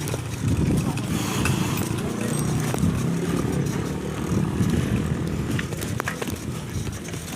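Road traffic, cars and motorcycles, heard from a moving bicycle, with a steady uneven low rumble.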